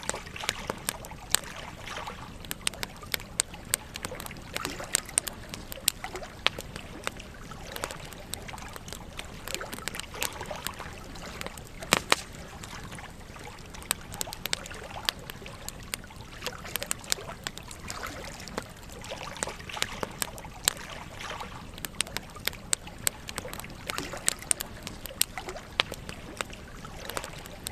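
Wood campfire burning, with frequent sharp crackles and pops over a steady rush. A louder pop comes about twelve seconds in.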